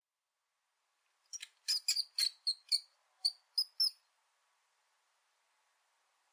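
A quick run of about ten short, high-pitched squeaks or chirps from a small animal, lasting about three seconds.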